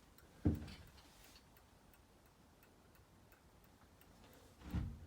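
Faint, regular ticking, with two short dull thumps: one about half a second in and one near the end.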